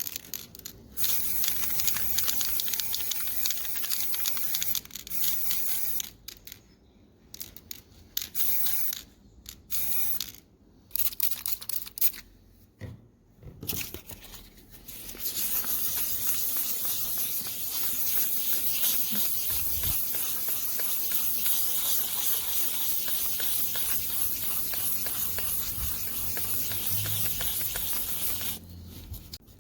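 Paint spraying with a hiss: several short bursts, then one long unbroken spray of about thirteen seconds.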